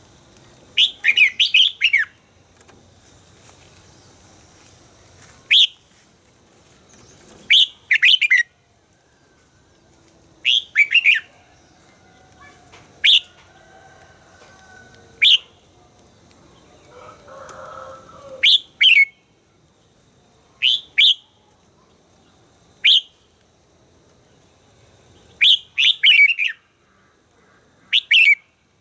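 Red-whiskered bulbul singing: short, bright phrases of a few quick falling notes, repeated every couple of seconds.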